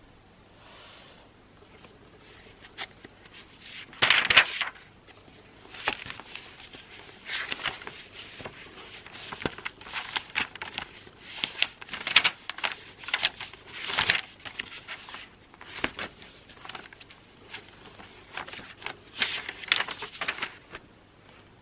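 Handwriting on paper: irregular scratchy strokes in short runs, beginning about three seconds in, with a few louder strokes.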